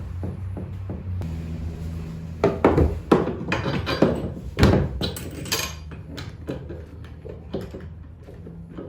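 Mount hardware and tools being handled: a quick run of sharp clinks and knocks starting about two and a half seconds in and dying away after about three seconds, over a steady low hum.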